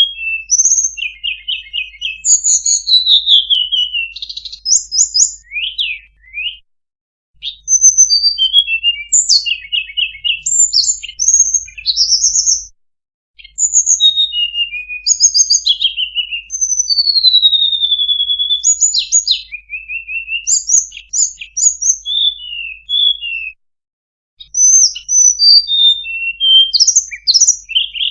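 Flowerpeckers (tledekan) calling from a bird-lure recording: rapid high chirps, short trills and thin descending whistles, crowded together. The calls break off briefly three times: about a third of the way in, near the middle and near the end.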